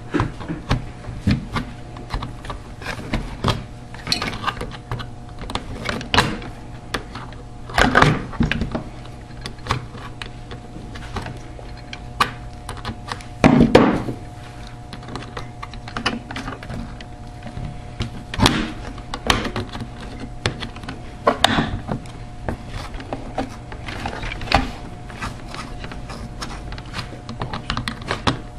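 Irregular clicks and knocks of a refrigerator defrost timer's mounting clips being worked loose and the part being handled, with a few louder knocks, over a steady hum.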